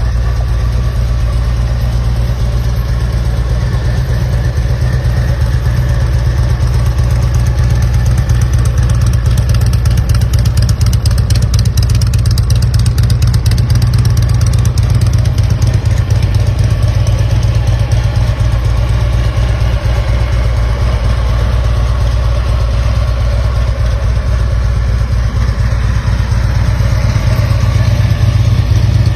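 Harley-Davidson Electra Glide Classic's V-twin engine running steadily and loudly at a low, even pace.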